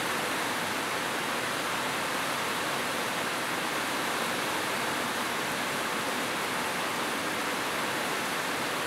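Heavy rain falling steadily on corrugated metal roofs, a dense even hiss that does not change.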